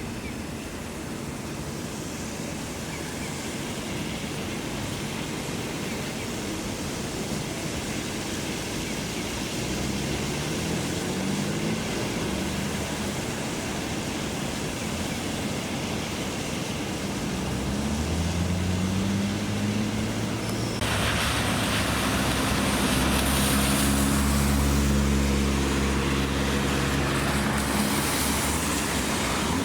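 Road traffic on a wet road in the rain: vehicle engines speed up past twice, rising in pitch. About two-thirds of the way through a louder hiss of spray or rain sets in over the steady hum of engines.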